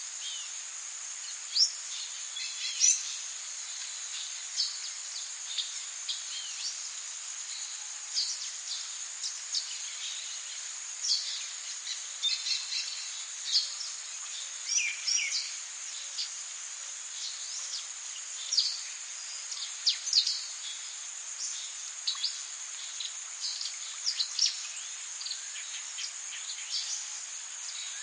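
Tropical rainforest ambience: a steady high-pitched insect drone under many short bird chirps and whistles scattered throughout, over a faint hiss.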